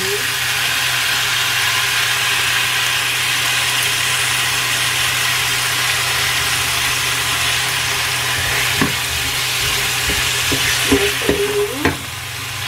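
Onions and bell peppers frying in sweet-and-sour sauce, a steady sizzle. From about nine seconds in, a wooden spatula stirs them, with a few knocks and scrapes against the pan.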